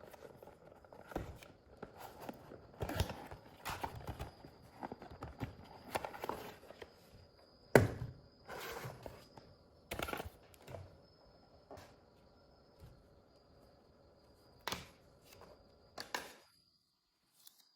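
Irregular clicks, taps and knocks of a small plastic mini fan and its packaging being handled, with one sharper knock about halfway through, over a faint steady high tone. The sound cuts out abruptly near the end.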